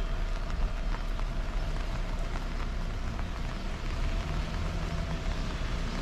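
Steady rain falling, with many small drops ticking and a steady low rumble underneath.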